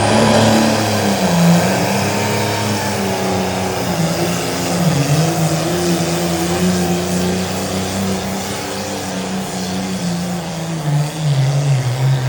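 Pulling tractor's engine running loud at high revs under load while dragging the weight-transfer sled down the track, its pitch sagging briefly a few times as it bogs and recovers.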